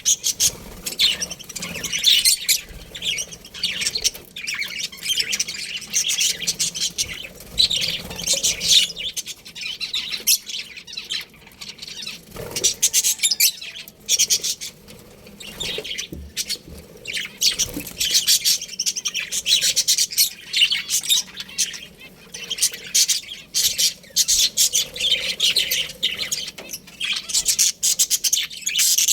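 A colony of budgerigars chirping and chattering, many birds at once, in a dense, unbroken stream of quick, high chirps.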